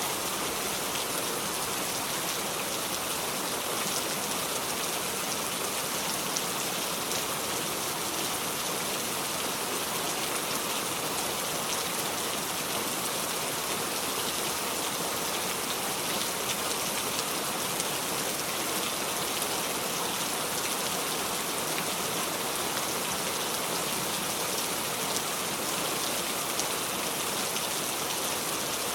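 Steady heavy rain falling on a surface, a constant dense patter with fine individual drop ticks and no thunder.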